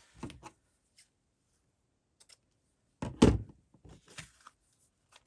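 A single dull thump about three seconds in, like an object set down on a table, among light taps and rustles of handling craft materials.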